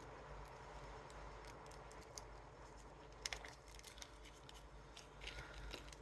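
Faint clicks and ticks of small hand tools and parts being handled on a workbench, over a low steady hum; the sharpest click comes a little past three seconds in.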